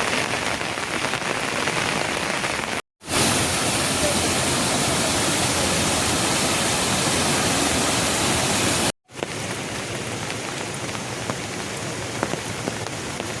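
Steady rain falling, a dense even hiss. It cuts out to silence twice, briefly, about three seconds in and about nine seconds in, and between those breaks the rain is louder.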